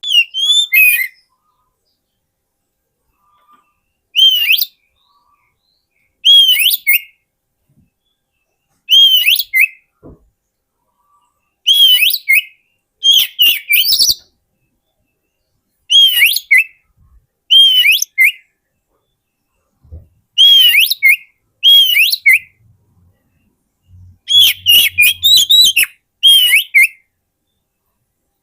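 Oriental magpie-robin (kacer) song, the kind played as a lure call for wild kacer. It is a string of short, loud whistled phrases, each a rising-and-falling note followed by sharper high notes, repeated about every two seconds.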